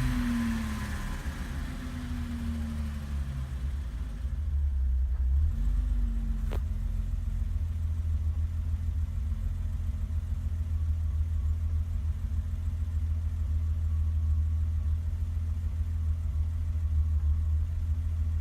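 1988 BMW 325's straight-six engine idling while still warming up, given a few light blips of the throttle in the first six seconds that fall back to a steady idle. A single click about six and a half seconds in.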